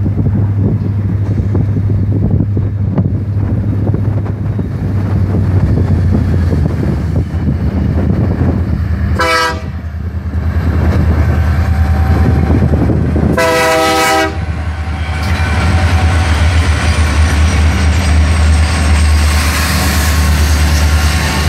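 Union Pacific diesel freight locomotives approaching with their engines running, sounding the air horn twice: a short toot about nine seconds in and a longer blast about thirteen seconds in, a friendly greeting to people at the crossing. After the second blast the engine noise and the rolling noise of wheels on rail grow louder as the lead units pass close.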